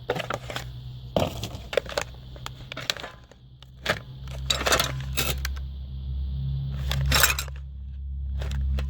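Small metal parts clinking, tapping and knocking as a little tin and gas torch fittings are handled, a dozen or so irregular clicks, over a steady low hum that grows louder about four seconds in.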